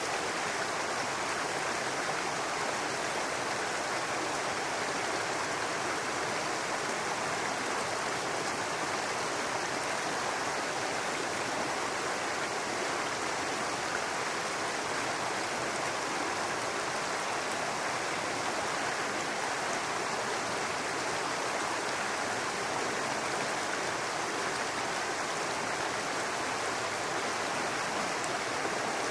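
Babbling brook: small river water running steadily over stones, a continuous even rush and babble.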